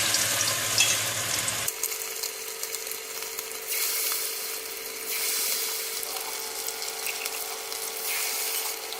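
Tempura-battered chicken wings deep-frying in very hot oil, a steady sizzle and crackle that swells louder a couple of times. A steady hum joins about two seconds in.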